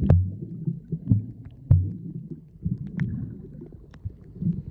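Low, uneven rumbling and buffeting on the microphone, with a few sharp knocks scattered through it.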